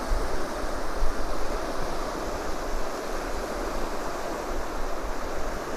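Steady wash of surf on a beach, an even rushing noise with some wind on the microphone.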